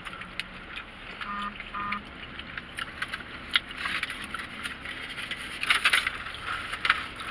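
Close-up eating sounds: chewing and crunching mixed with crackling and rustling, busier in the second half, with two short hums a little over a second in.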